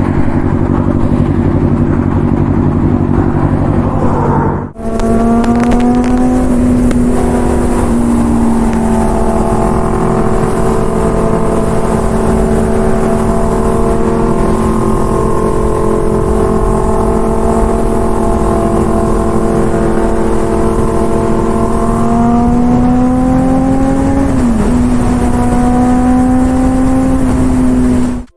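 Motorcycle engine running at a steady high cruise, a steady hum under the rush of wind on the microphone. After a brief break about five seconds in, the revs climb for a couple of seconds near the end, then drop suddenly as the bike shifts gear and settles back.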